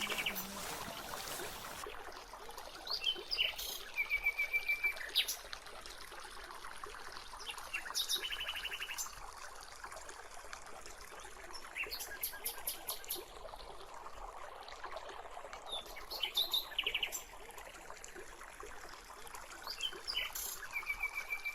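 Forest birds chirping and calling in short, rapid trills that repeat every few seconds, over a faint steady trickle of running water.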